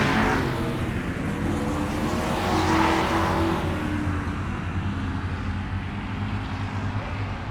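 Car engine running with a steady low hum. It swells louder about three seconds in, like a vehicle passing close, then fades away.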